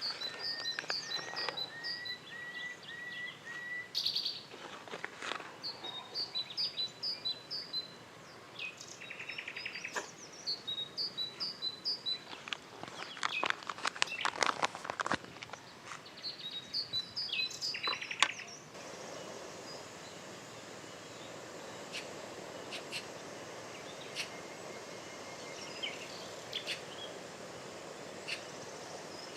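Birds calling in quick runs of short, repeated chirps, one series after another. About two-thirds of the way through the birdsong stops abruptly and gives way to a steady hiss, with only a few faint chirps left over it.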